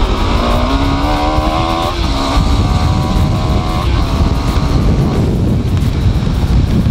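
Single-cylinder KTM RC 390 motorcycle engine accelerating: its pitch rises for about two seconds, drops with an upshift, pulls again and then eases off about four seconds in, under heavy wind rumble on the microphone.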